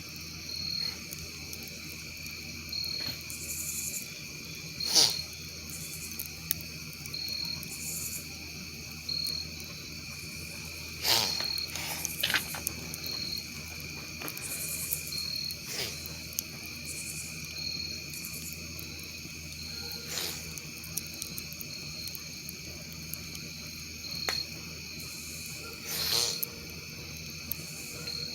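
Crickets trilling steadily, with a higher chirp repeating about every second and a half. A campfire crackles over them with a few sharp pops, the loudest about five seconds and eleven seconds in.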